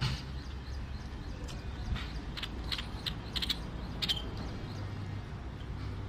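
Small birds chirping: short, sharp high notes, bunched in a quick series about two to four seconds in, over a faint, steadily repeating high chirp and a steady low background rumble.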